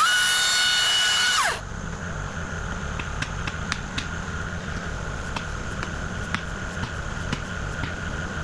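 A small motor whines loudly at a high, steady pitch for about a second and a half, then winds down. After that a low engine rumble runs on, with scattered light clicks.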